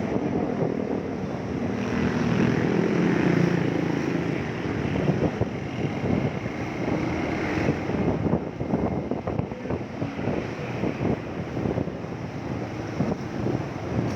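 Motorcycle engine running steadily while riding, its drone strongest in the first few seconds, with wind buffeting the microphone throughout.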